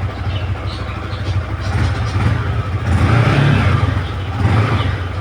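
Yamaha R15M's 155 cc single-cylinder engine running just after a start, given a couple of light throttle blips about three seconds in and again near the end.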